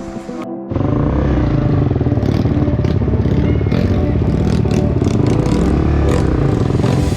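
Trail motorcycle engine running loud and close, cutting in abruptly just under a second in, with clatter from the bike.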